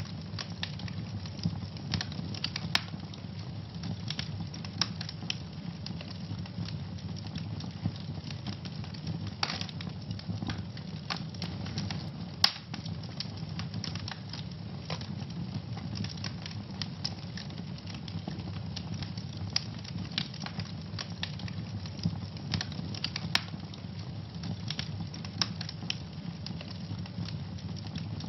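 Wood fire burning in a fireplace, crackling and popping irregularly over a steady low rumble. There are scattered sharper pops, the loudest about halfway through.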